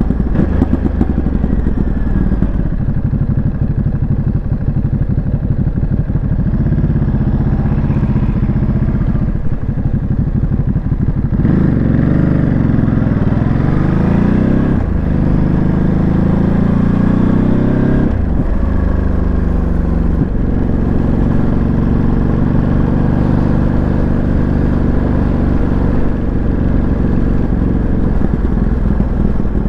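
Ducati Monster 937's Testastretta V-twin engine running under way on the road. The revs climb and drop sharply a few times in the middle, then hold fairly steady near the end.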